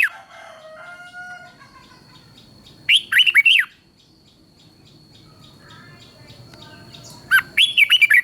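Red-whiskered bulbul singing: short, loud phrases of quick, sweeping whistled notes, one about three seconds in and another near the end, with fainter bird calls in between.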